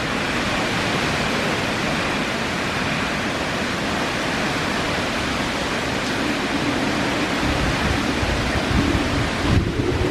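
Steady rush of typhoon wind and rain. In the last couple of seconds, gusts buffet the microphone with uneven low thumps.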